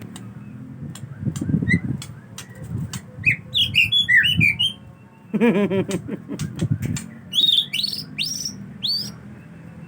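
Male white-rumped shama singing in short phrases: a quick jumble of high chirps a few seconds in, then a run of rapid upward-sweeping whistled notes near the end. A lower, pitched whistled phrase sounds in the middle.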